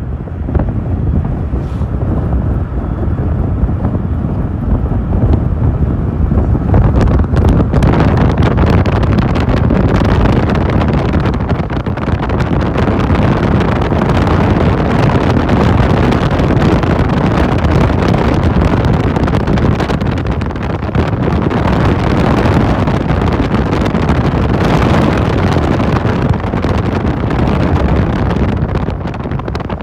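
Loud, steady wind buffeting the microphone of a passenger riding a moving motorcycle taxi (boda boda), a dense rush heaviest in the low end.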